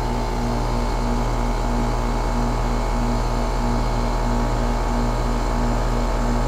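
2001 Trane XE1000 Weathertron heat pump outdoor unit running steadily in heating mode: the Climatuff compressor hum and the condenser fan, with a pulsing in the hum about twice a second.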